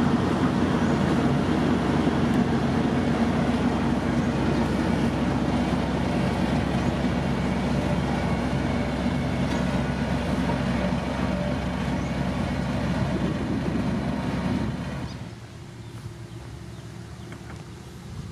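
Heavy diesel construction machinery running steadily at road-building work, then dropping sharply in level near the end.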